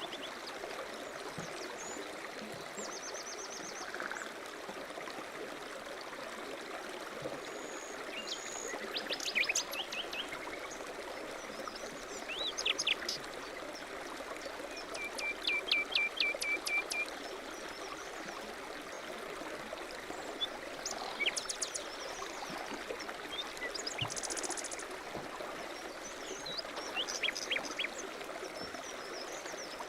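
A stream running steadily, with small birds chirping and trilling in short bursts every few seconds; the loudest is a rapid trill of repeated notes about halfway through.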